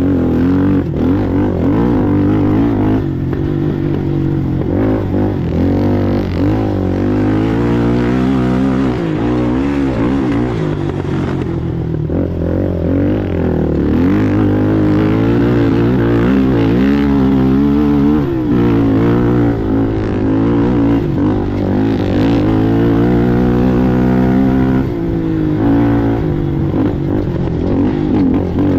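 Racing ATV engine running hard, its pitch rising and falling over and over as the throttle is worked and it shifts through the gears.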